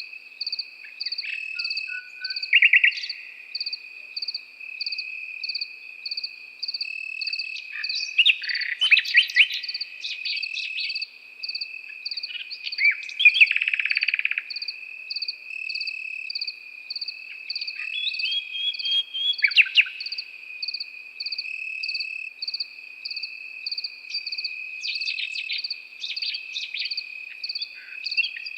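Nightingale singing in short, varied phrases of whistles and fast trills every few seconds, over crickets that trill steadily and chirp in a regular pulse of about two a second.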